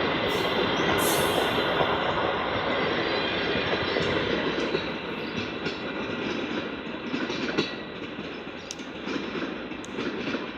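Passenger coaches of a locomotive-hauled train rolling past on the rails, wheels clicking over rail joints, with a brief high wheel squeal in the first couple of seconds. The sound fades steadily as the train draws away.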